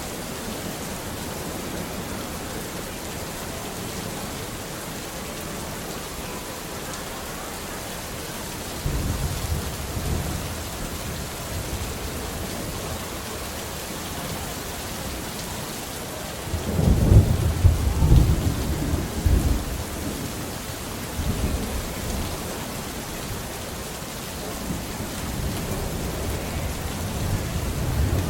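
Steady rain hissing, with rolls of thunder. A low rumble comes in about a third of the way through, a louder, crackling peal a little past the middle, and more rumbling builds near the end.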